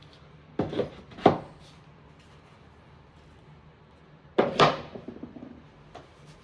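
Plastic hair dryer attachments set down on a wooden shelf: a few short knocks, two in the first second and a half and another close pair about four and a half seconds in.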